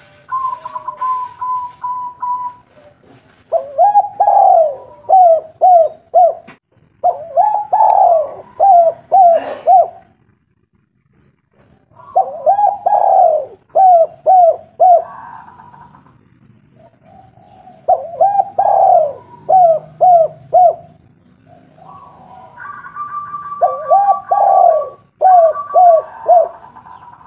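Spotted dove (tekukur) cooing in repeated phrases, each a drawn-out coo followed by three or four short, clipped coos. There are about five phrases with short pauses between them. A thin steady whistle-like tone sounds briefly at the start and again near the end.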